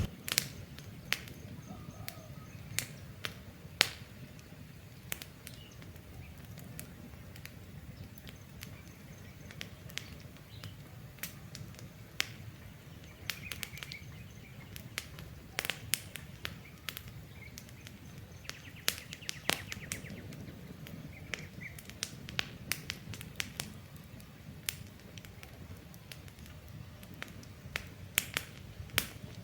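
Wood campfire crackling, with frequent irregular sharp pops over a low steady rumble. Faint bird chirps come through now and then.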